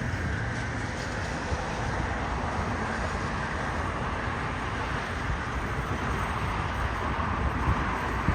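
Jet airliner engines running as the plane rolls out after landing, a steady noise, with wind on the microphone.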